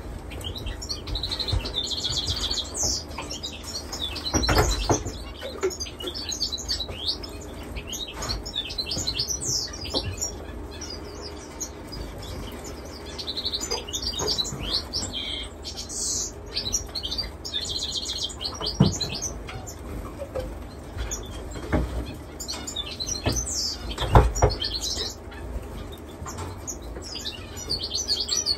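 Many caged finches chirping and twittering together, with wing flutters and a few sharp knocks, the loudest well into the second half.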